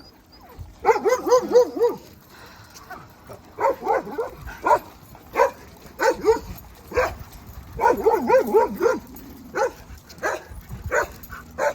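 A dog barking excitedly in several quick volleys of high, yipping barks, about five or six a second, then single barks near the end.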